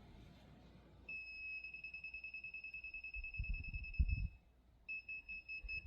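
Laser level receiver on a grade rod giving a high, rapidly pulsing beep, the kind of fast beep that signals the rod is off the laser's grade line. It starts about a second in, breaks off briefly near the end and resumes. A few low thuds fall around the middle.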